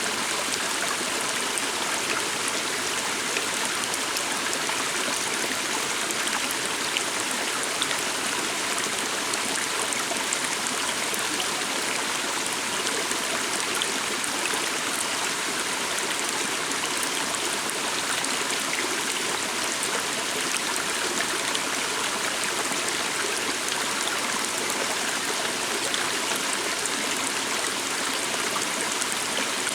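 Forest stream flowing steadily, a continuous rushing and trickling of water.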